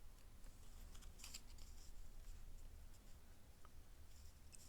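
Near silence over a low steady hum, with faint rustling and scratching of paper being handled; the clearest scratch comes about a second in.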